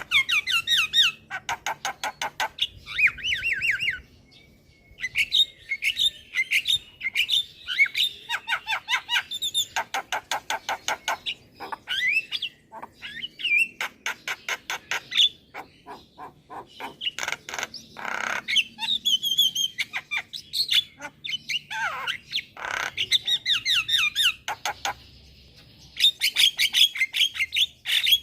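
Javan myna song: a varied, nearly unbroken stream of rapid clicking rattles, whistled gliding notes and harsh squawks, broken by a couple of short pauses.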